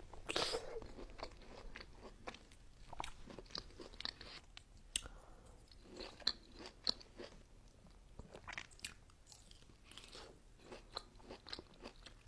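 Close-miked chewing of a chocolate-covered strawberry: a louder crunchy bite right at the start, then many soft, irregular wet chewing clicks and small crunches of the chocolate shell.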